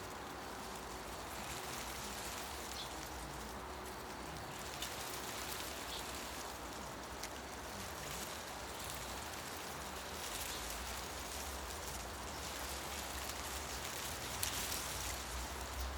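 Wind moving through tree leaves: a steady rustling hiss that swells about ten seconds in and again near the end, over a low rumble.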